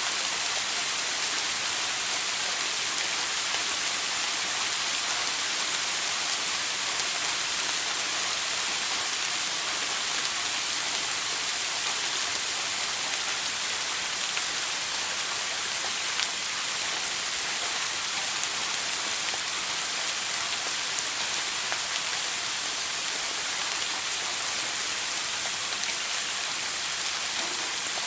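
Running shower water spraying and splashing in a steady, even hiss, with an occasional louder drop.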